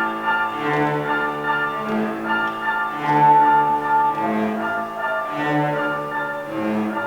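A string ensemble with violin and cello playing a waltz. A low note returns at an even, bar-by-bar pulse under a melody line that holds one long note in the middle.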